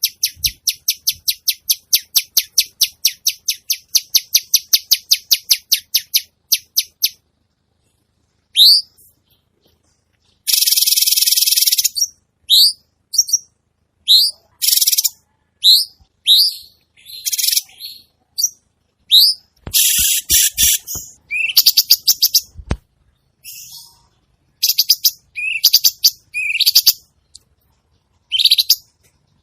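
Recorded songbird calls played as a masteran, a training track for contest birds: a fast, even string of high chips for about the first seven seconds. It is followed by short upward-sweeping whistles mixed with harsh, rough buzzy bursts, separated by brief pauses.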